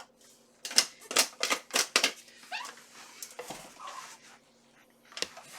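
Steel leg armour plates clicking and clacking against each other as the wearer moves. The knocks come in a quick run of five or so in the first two seconds, with fainter scraping and short squeaks after, and one more sharp click near the end.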